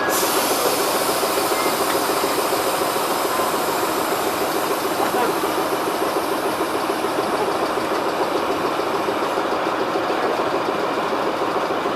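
Krupp D 300 diesel locomotive's engine running steadily at idle with an even, rapid pulse. A high hiss sits over it and stops about three-quarters of the way through.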